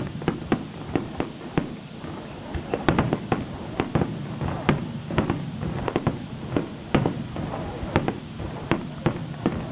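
Fireworks exploding: a rapid, irregular string of bangs, several a second, over a continuous rumble of further bursts.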